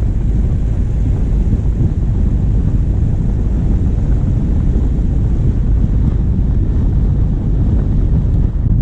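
A vehicle's diesel engine running steadily while driving, heard through a bonnet-mounted camera microphone with a heavy low wind rumble.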